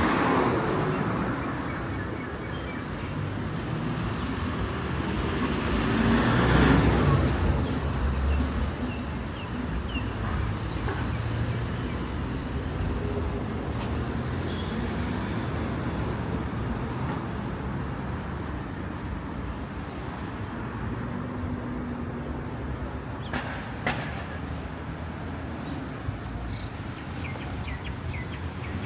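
Street traffic: a vehicle passes at the start and another, louder one about six seconds in, with a steady background of road noise after that and a single sharp knock near the end.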